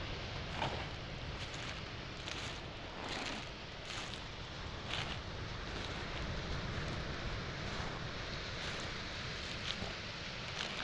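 Footsteps crunching on beach pebbles and small stones, about one step a second, with waves washing on the shore and wind underneath.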